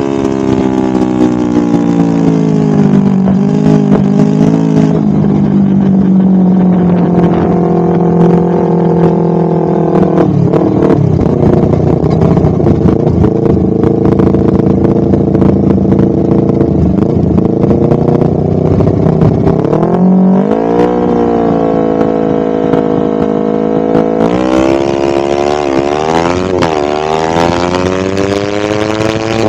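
Exhaust and engine of a Honda CBR250RR with a DST full-system exhaust, ridden on the road. The pitch falls over the first few seconds, holds steady, climbs about twenty seconds in, then wavers up and down and climbs again near the end.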